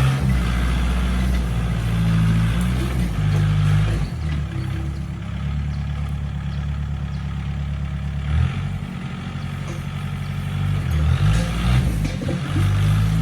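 Tractor engine running under working load, its pitch dropping and rising several times as the load and revs change.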